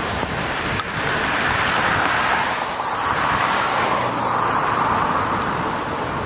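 A car passing on a wet road, its tyres hissing as the sound swells through the middle seconds and eases off, over steady wind and road noise.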